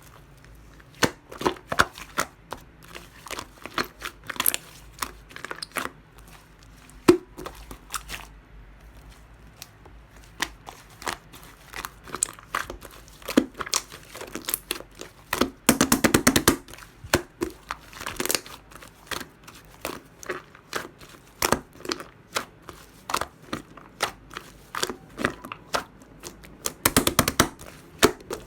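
Clear glitter slime being squished and pressed by hand, giving many short wet clicks and crackles. There are two longer runs of rapid clicking about 16 and 27 seconds in.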